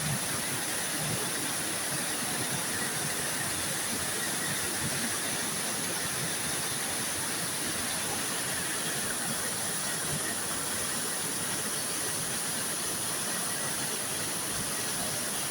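Water falling and rushing at a waterfall: a steady, even rush with no breaks.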